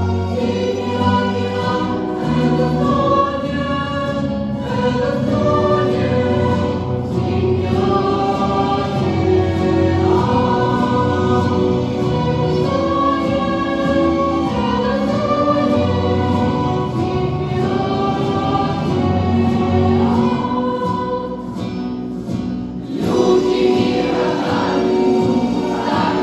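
A choir singing with musical accompaniment, dipping briefly about three-quarters of the way in and then coming back in louder.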